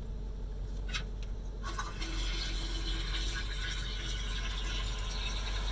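Rinse water of an automatic car wash spraying onto the car, heard from inside the cabin: a couple of brief hisses about a second in, then a steady hiss of water that comes on about two seconds in and holds, over a low hum.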